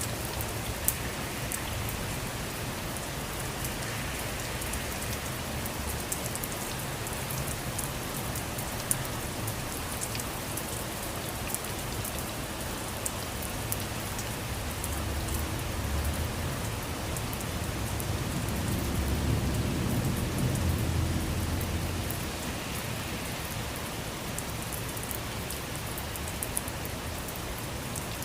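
Steady rain falling, with individual drops ticking sharply. A low rumble swells and fades a little past halfway.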